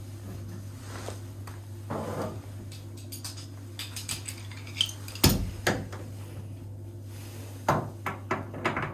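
Metal tools and faucet fittings being handled, with scattered clinks and knocks; the loudest knock comes a little past halfway and a quick cluster follows near the end. A steady low hum runs beneath.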